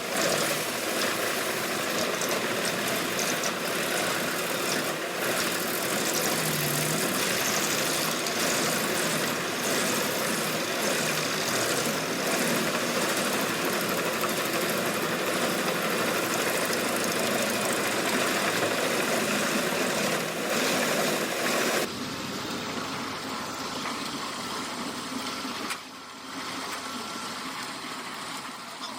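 Large wood chipper running hard, its engine under a dense grinding, crackling noise of wood being chipped. About 22 seconds in the sound drops suddenly to a quieter steady engine.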